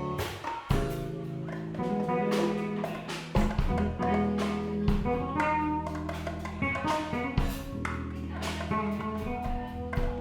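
Live band jamming: guitar playing over a sustained bass line, with drum hits and cymbals keeping time in a loose blues-jazz groove.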